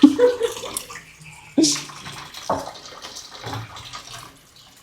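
Water running and splashing in a kitchen sink, with a couple of sharp knocks about one and a half and two and a half seconds in.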